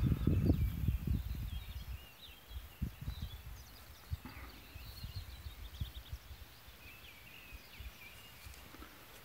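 Small birds singing, with short twittering, chirping phrases on and off. A low rumble on the microphone is louder during the first two seconds and then dies down.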